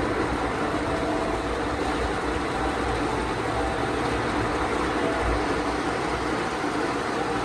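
Automatic gantry car wash machine working over the car, heard from inside the cabin: a steady rush of water and machinery with a low rumble.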